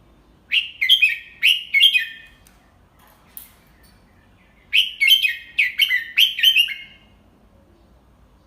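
Red-whiskered bulbul singing two short, loud phrases of quick whistled notes that drop in pitch, the second phrase starting about four seconds after the first.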